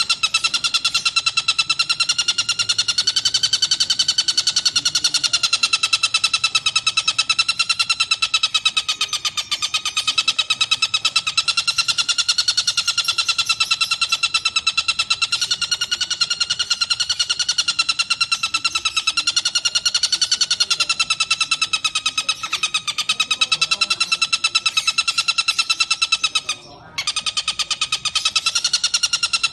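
A tengkek buto kingfisher's long, rapid rattling trill, repeated without pause and wavering slightly in pitch, broken once briefly near the end.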